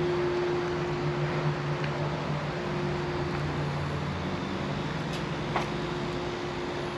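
Steady low mechanical hum of a motor or engine running, holding an even pitch, over a faint hiss.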